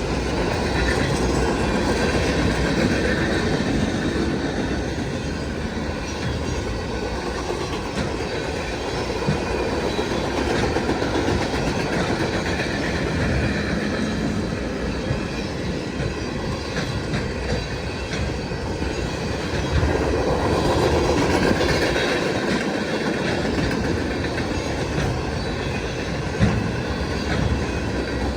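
Freight cars rolling past at close range, a steady rumble with wheels clacking over rail joints and some wheel squeal.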